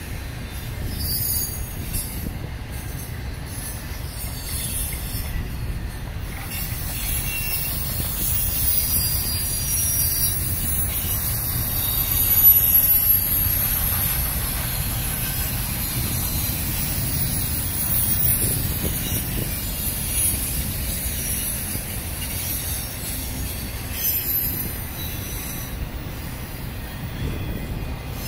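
Intermodal freight cars, double-stack container well cars and trailer-carrying flatcars, rolling past with a steady low rumble of wheels on rail. High-pitched wheel squeal rises in the middle stretch and is loudest about halfway through.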